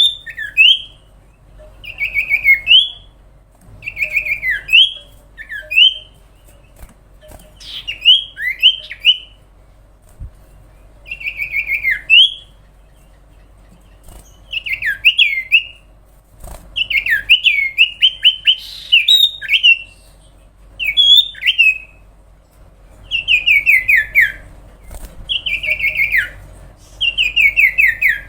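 Common iora singing energetically: short phrases of rapid whistled notes sliding downward, repeated every second or two with brief pauses between them.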